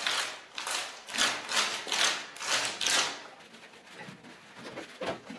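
A brush scrubbing over the concrete foundation slab in quick rhythmic strokes, about two a second, stopping about three seconds in; a faint click near the end.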